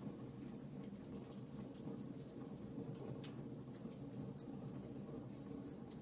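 Wood fire crackling in a fireplace: irregular small pops and snaps, a couple of sharper ones in the second half, over a steady low rumble.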